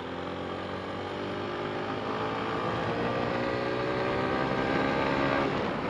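Motorcycle engine accelerating, its pitch climbing steadily for about five seconds before breaking off near the end.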